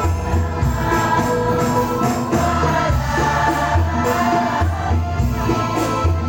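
A choir singing sholawat, an Islamic devotional song, to a steady beat of hand percussion with jingles.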